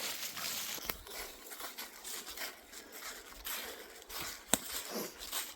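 Rustling and crunching in dry leaf litter and twigs on a woodland floor, with a couple of sharp snaps, about a second in and again about four and a half seconds in.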